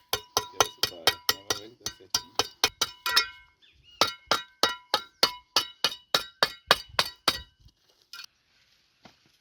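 Quick, ringing metal taps on a clay brick, about four a second, in two runs of some three seconds each with a short pause between: a brick being tapped along a line so that it breaks cleanly in half.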